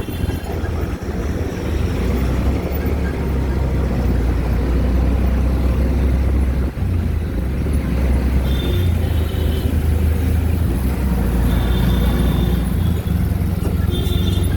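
Auto-rickshaw engine and road noise heard from on board, a steady low rumble that shifts in pitch as the engine speed changes. Short high beeps sound a few times in the second half.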